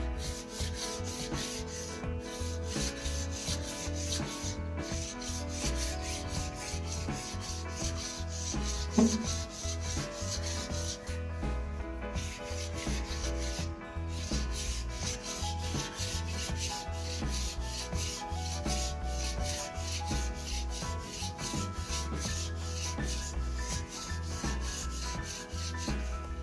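Sandpaper rubbing along a wooden snooker cue shaft in quick, continuous back-and-forth strokes, over a low steady hum. There is a brief louder knock about nine seconds in.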